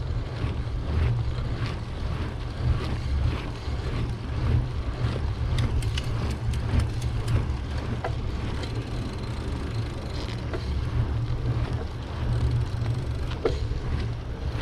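Wind buffeting the microphone of a camera riding on a moving bicycle, a steady low rumble, mixed with tyre and road noise and scattered small clicks and rattles from the bike.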